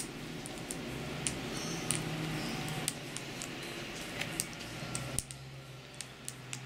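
Irregular sharp light clicks and taps of birds pecking at food on a hard surface, over a low steady background hum.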